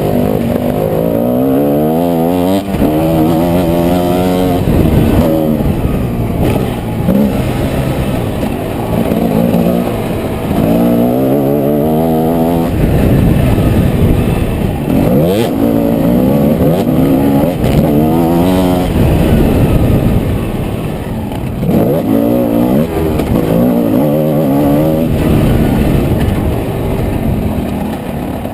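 Motocross bike engine revving hard and backing off again and again, its pitch climbing in repeated sweeps as it accelerates and shifts, over a rough low rumble.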